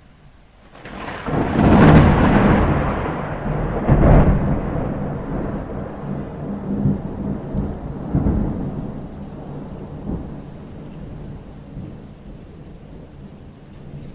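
Thunder over steady rain: a peal builds about a second in, with loud cracks near two and four seconds, then rolls on in lower rumbles that slowly fade.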